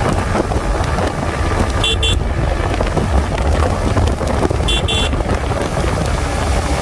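Wind buffeting the microphone of a motorcycle at expressway speed, a steady low rumble. Twice, about two seconds in and again about five seconds in, a short high double beep cuts through.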